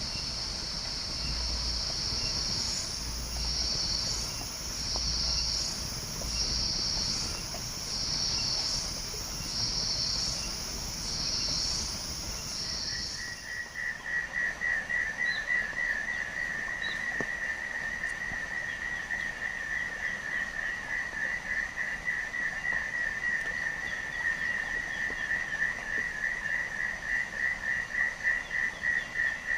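Forest insects calling: a high, shrill buzz that swells and fades about every second and a half, which stops about halfway through. A lower, rapidly pulsed trill takes over and continues steadily.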